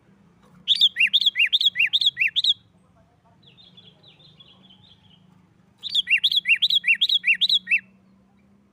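Sooty-headed bulbul (kutilang) singing its rapid 'nggaruda' song: two loud bursts of quickly repeated paired notes, a high note then a lower one, each burst about two seconds long. A softer chattering phrase comes between the bursts.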